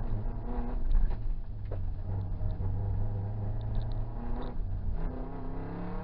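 Subaru rally car's flat-four engine heard from inside the cabin, running hard along the stage, with a sharp knock or two from the car in the first couple of seconds and the revs climbing again near the end.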